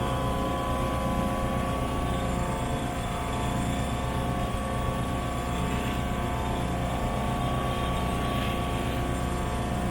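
Steady mechanical drone of the Rainman portable watermaker's pump running during its fresh-water flush, together with the sailboat's engine, with a constant whine held through.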